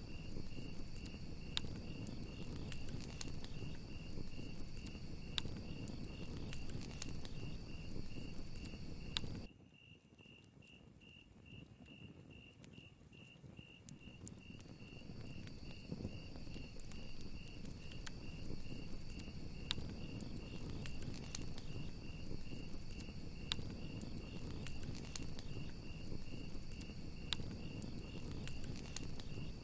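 Crickets chirping in a steady, evenly pulsing trill over a crackling campfire with scattered sharp pops. About nine seconds in, the fire sound cuts out suddenly, leaving the crickets alone for a few seconds before everything fades back in.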